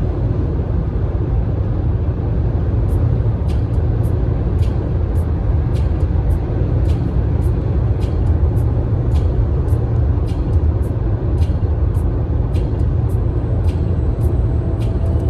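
Car driving along a road: a steady low rumble of engine and road noise, with faint high clicks scattered through it.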